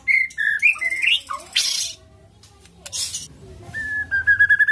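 White-rumped shama (murai batu) singing. It gives a run of varied whistled phrases, then harsh rasping notes, then a fast trill on one pitch near the end.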